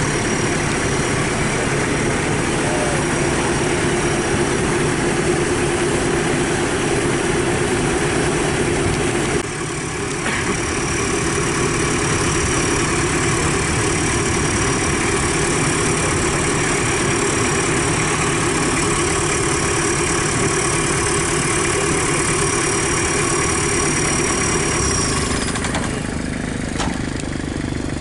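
Engines of jeeps and motorcycles running, mostly steady, with a brief drop in level about a third of the way in and a change near the end.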